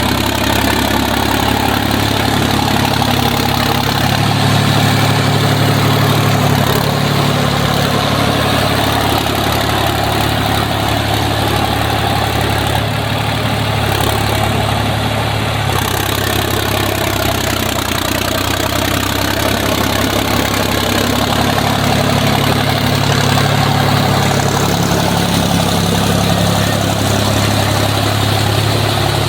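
Sonalika Tiger DI 50 tractor's diesel engine running steadily, swelling a little louder twice.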